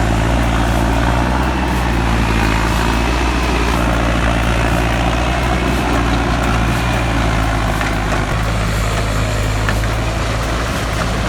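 Heavy vehicle engine running at a steady pitch, a deep, even drone that neither revs up nor dies away.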